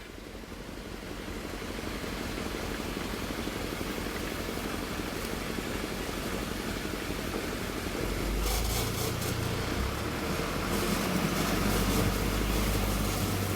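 Hino Dutro 130 HD dump truck's diesel engine running steadily. About eight seconds in, a deeper, louder engine note sets in and holds.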